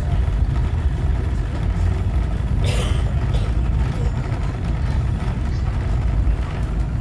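Heritage train carriage moving slowly out of a station, heard from inside: a steady low rumble, with a short burst of hissing noise about three seconds in.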